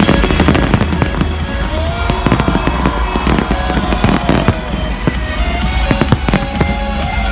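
Fireworks display going off in a rapid, continuous barrage of loud bangs and crackles, with music playing underneath.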